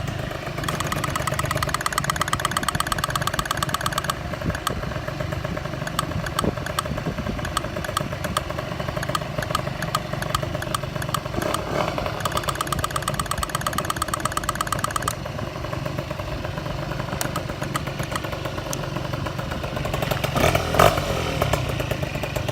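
Two-stroke Honda AF27 Dio scooter engine, bored up to 74.8cc with an iron cylinder and fitted with a sport expansion chamber, running at idle. A fast, even ticking joins in twice for a few seconds each, and a brief louder burst comes near the end.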